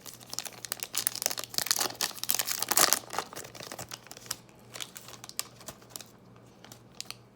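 Cellophane wrapper of a Panini Mosaic football cello pack crinkling and tearing as it is pulled open by hand. The crackling is busiest in the first three seconds, then thins out to scattered light crackles.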